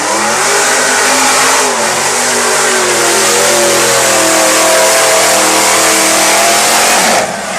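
A 4x4 truck engine revving hard under load during a run, its pitch climbing steadily, then dropping off suddenly about seven seconds in as the driver lets off.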